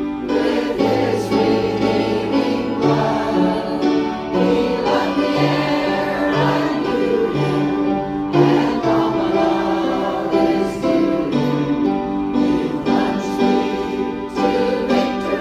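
A choir singing a song in held, sustained notes, with a low line stepping beneath the voices.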